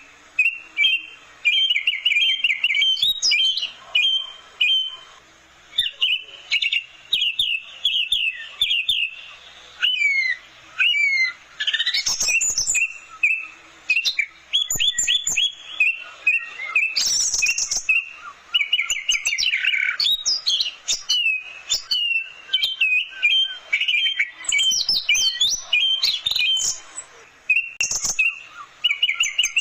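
Orange-headed thrush singing a loud, varied song: fast phrases of rapidly repeated notes and trills, broken by short pauses.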